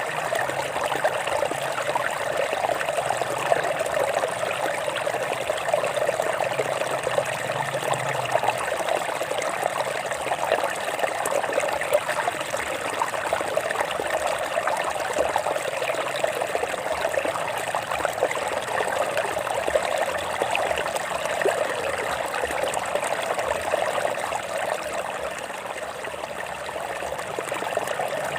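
Stream water running over rocks: a steady rush of water with many small splashes and trickles.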